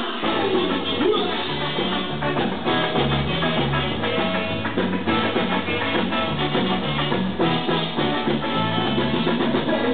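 Live rock band with drum kit, bass and electric guitar coming in together at once and playing a driving, rhythmic song, with a stepping bass line.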